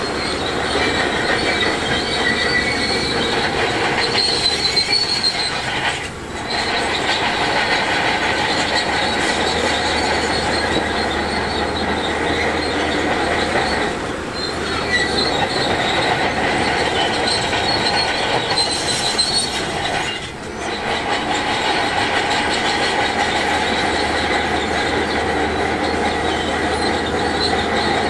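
Crawler bulldozer running under load while pushing rock, its steel tracks squealing and clanking, with short lulls about six, fourteen and twenty seconds in.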